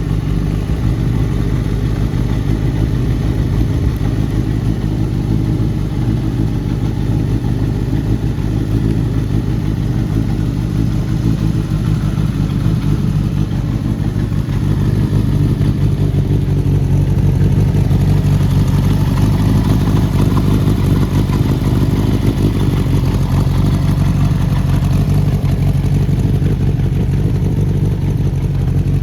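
Kawasaki Z750GP's air-cooled inline-four engine running steadily through an aftermarket muffler, a little louder from about halfway through.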